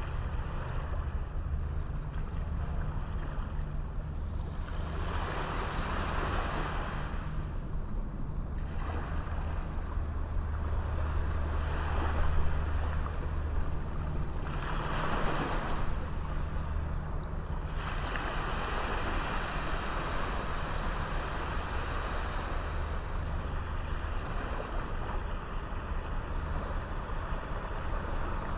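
Sea waves breaking and washing up a small beach, coming in several surges a few seconds apart over a steady low rumble of surf; the last surge, starting a little after halfway, is drawn out.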